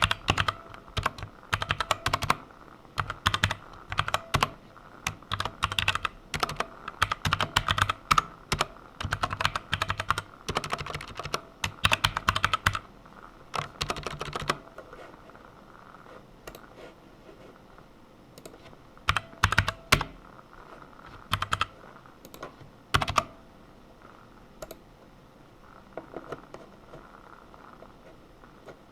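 Typing on a computer keyboard while writing code: fast, continuous runs of keystrokes for about the first fifteen seconds, then only a few short clusters of keystrokes with pauses between them.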